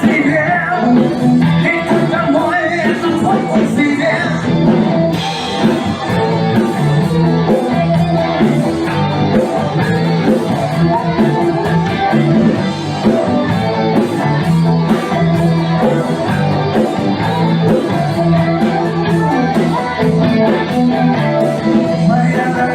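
Rock band playing, with guitar and singing over a steady beat.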